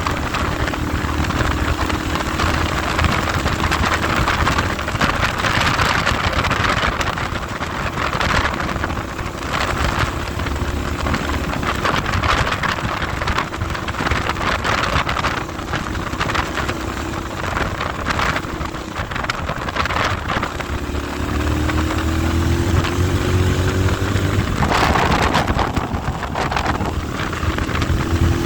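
Heavy wind buffeting on the microphone over a vehicle engine running on the move. Late on, the engine tone climbs as it accelerates.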